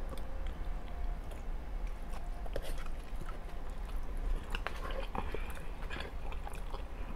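A person chewing a mouthful of pasta close to the microphone: soft, wet mouth clicks and smacks coming irregularly. Near the middle a fork digs into the food on a paper plate.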